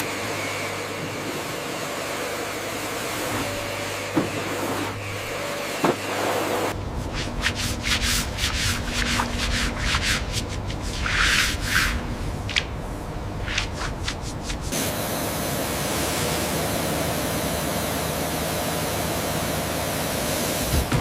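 Brushes scrubbing grime: a steady rubbing hiss over a low hum, then quick irregular brush strokes from about seven seconds in, giving way near fifteen seconds to a steady, even hiss.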